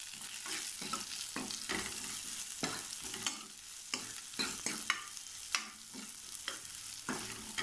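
Onions, ginger-garlic paste and green chillies sizzling in hot oil in a non-stick kadai, stirred with a steel ladle that scrapes and clicks against the pan several times a second. This is the sauté that cooks off the raw smell of the ginger-garlic paste.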